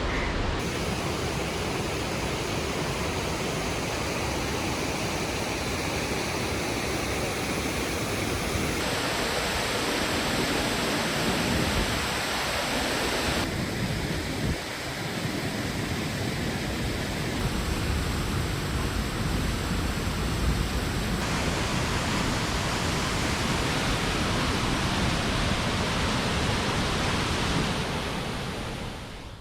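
Steady, dense rush of a waterfall pouring. Its tone shifts abruptly a few times, about 1, 9, 13 and 21 seconds in, and it fades out near the end.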